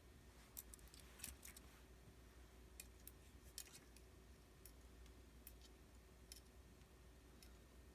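Faint, irregular light clicks and ticks over quiet room tone with a low steady hum.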